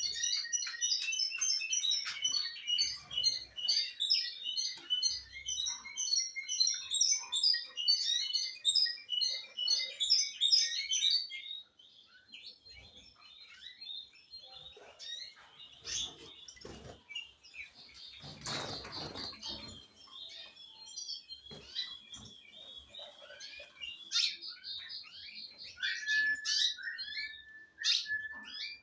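Small cage birds chirping and singing densely for about the first eleven seconds, then the song thins to scattered chirps. There is a brief rustling noise about eighteen seconds in, and a short steady whistled note near the end.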